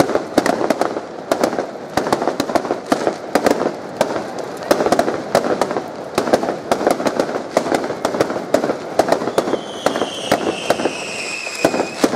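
Fireworks bursting overhead: a dense, irregular run of sharp cracks and pops, with a thin whistle falling in pitch near the end.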